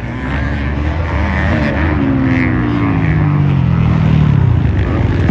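Motocross race engines, several at once, revving with their pitch sliding down and back up as they shift, and growing louder toward the end.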